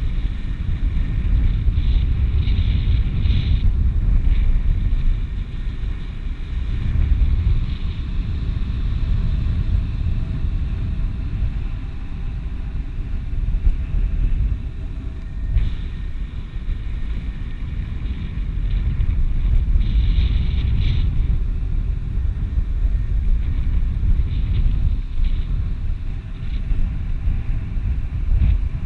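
Wind buffeting the microphone: a low rumble that swells and eases without a break.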